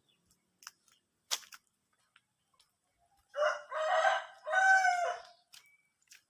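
A rooster crowing once, a single call of about two seconds in three joined parts that falls off at the end. A few faint clicks come before it.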